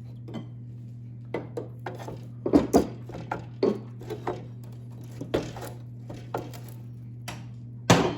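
Scattered metallic clanks and knocks as the snowmobile's chain case housing and drive-shaft parts are worked loose by hand and with a bar. The knocks are loudest about two and a half seconds in and near the end, over a steady low hum.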